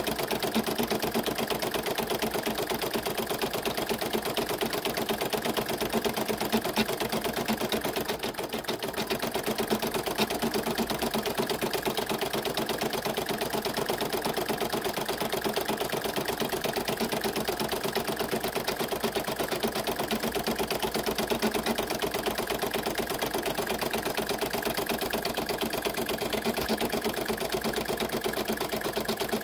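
Embroidery machine stitching at a steady, rapid rhythm, its needle running continuously, with a brief dip in level about eight seconds in.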